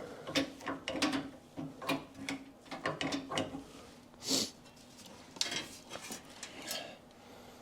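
Irregular light clicks, clinks and rubbing from handling parts and wiring on a car's dismantled front end, with a short scraping hiss about four seconds in.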